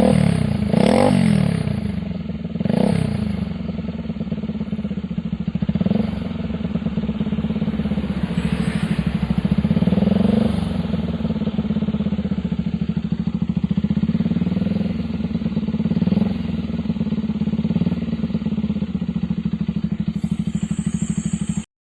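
Bajaj Pulsar 200NS single-cylinder engine running through an aftermarket underbelly exhaust without a dB killer, idling steadily with short throttle blips every few seconds. It cuts off suddenly near the end.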